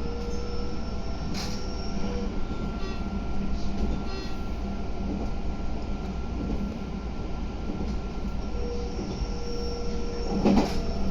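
Meitetsu 3150 series electric train slowing into a station: a steady rumble from the running gear with a thin electrical whine over it. There is a sharp clunk about ten seconds in.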